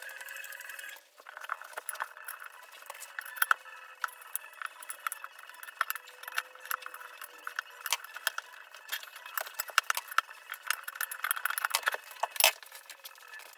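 Irregular metallic clicking, clinking and rattling, many sharp ticks in quick succession, over a steady high whine.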